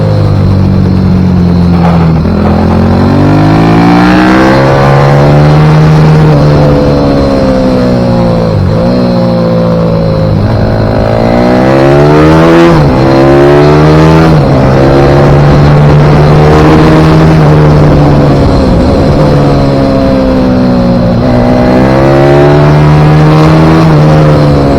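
Pit bike engine running hard at full throttle, its pitch climbing through each gear and dropping sharply at the shifts and on braking, over and over through the laps.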